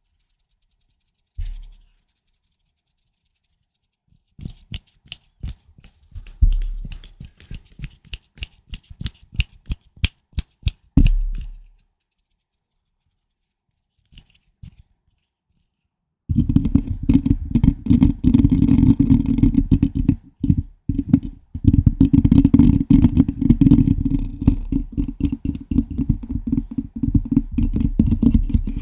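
Fingers working directly on a microphone: a quick run of sharp taps and clicks, then from a little past halfway loud continuous scratching and rubbing on the mic, heavy and boomy in the low end.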